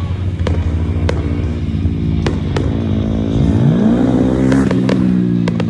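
A loud motor-like drone that rises sharply in pitch about three and a half seconds in and then holds steady, with scattered sharp firework cracks, more of them near the end.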